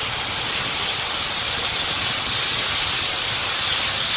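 Compressed natural gas hissing steadily as it escapes from a fire-damaged fuel line on a burning CNG-powered garbage truck.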